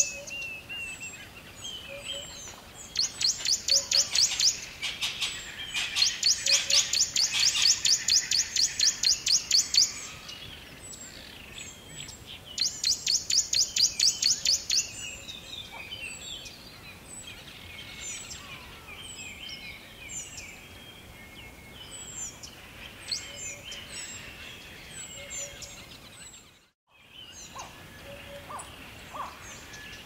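Forest birdsong: many short chirps and whistled calls, broken by loud rapid pulsing trills that each last a few seconds, the loudest of them in the first half. The sound drops out briefly near the end.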